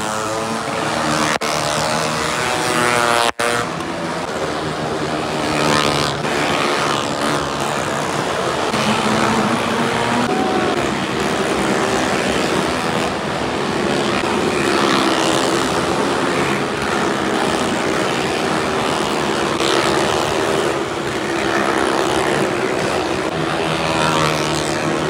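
Several vehicle engines, stunt motorcycles and cars riding round the wall of a Well of Death, running hard and revving continuously, their pitch rising and falling as they circle.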